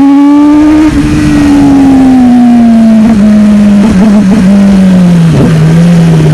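Sport motorcycle engine through a raw, loud exhaust, pulling with the revs climbing for about a second, then easing off as the pitch falls slowly. There is a brief dip in the revs about five seconds in.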